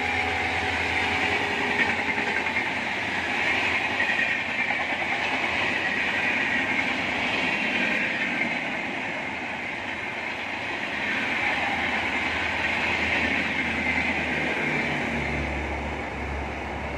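Passenger train coaches rolling past at speed close by: a steady rush of wheels on rail. Near the end a low hum sets in as the rear van goes by.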